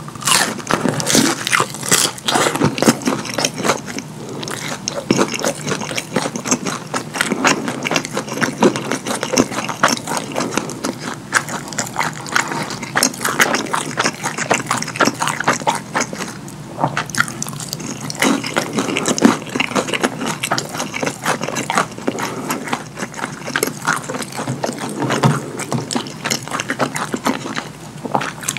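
Close-miked wet chewing and lip-smacking on chicken nuggets dipped in thick cheese sauce: a dense run of sticky, irregular clicks and squelches.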